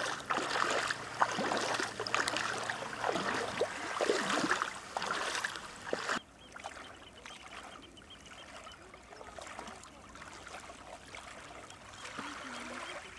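Bare feet splashing and sloshing through shallow water at the sea's edge, which cuts off suddenly about six seconds in, leaving quieter trickling water.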